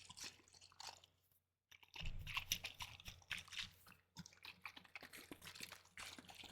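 Close-miked handling of a bottle of red wine vinegar: a quiet run of small crackling clicks and taps, pausing briefly about a second in.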